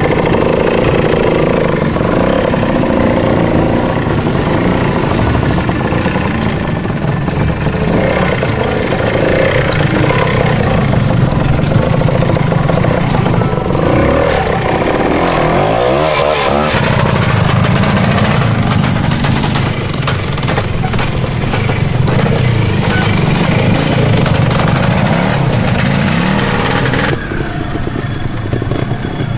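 Classic trials motorcycle engine running at varying revs, the throttle opened and closed so the pitch rises and falls repeatedly.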